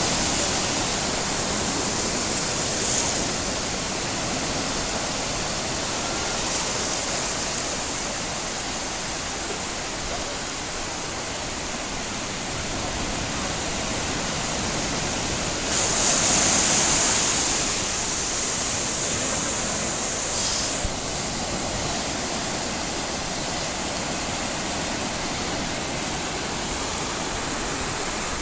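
Steady rushing wash of sea surf on a beach, swelling louder for a couple of seconds around the middle.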